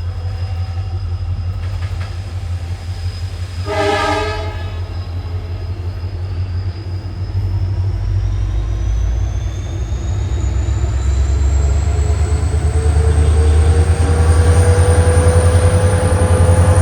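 A train running past, its locomotive giving a strong steady low hum, with one short horn blast about four seconds in. From the middle on, a rising whine joins and the train grows louder toward the end.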